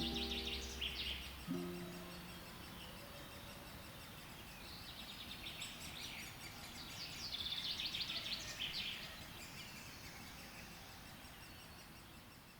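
A songbird singing phrases of quick high notes several times over a steady outdoor hiss, with the last notes of background music ending about a second and a half in; the sound fades out near the end.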